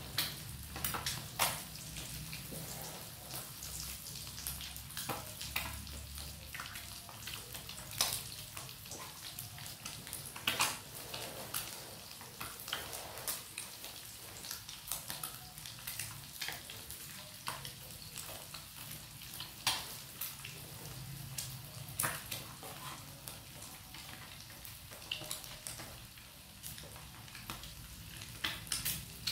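Batter-coated quail eggs deep-frying in hot oil: a steady sizzle with frequent irregular sharp pops and crackles.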